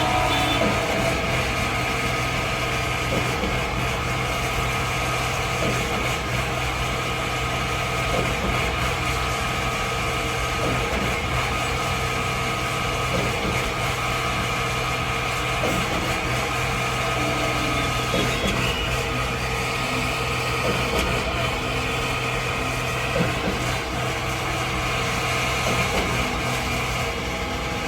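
Concrete mixer truck's engine running steadily at a near-constant pitch.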